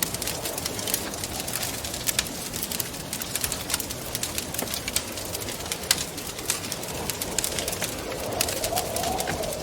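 Wood fire crackling with many small sharp pops, over a steady rush of wind with a low wavering howl that swells near the end.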